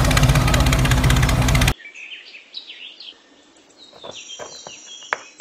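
Loud music cuts off suddenly just under two seconds in, leaving small birds chirping quickly and a few faint clicks.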